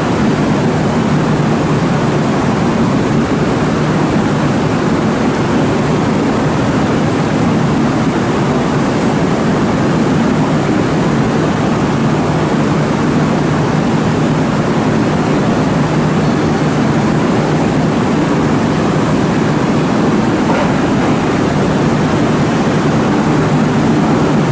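Steady, loud rumbling hum of a railway terminal platform as an electric train rolls slowly in, getting slightly louder near the end.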